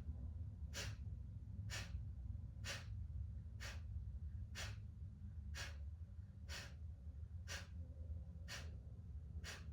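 Kapalabhati breathing: short, sharp, forceful exhales pumped out through the nose, about one a second, ten in a steady rhythm, over a low background hum.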